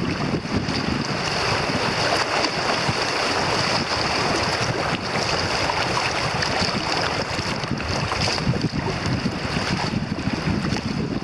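Steady rushing noise of river water around a kayak, with wind buffeting the microphone.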